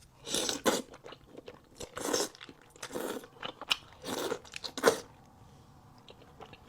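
Close-miked chewing of cheesy tteokbokki: a string of short, wet mouth and bite sounds about once a second, fading out about five seconds in.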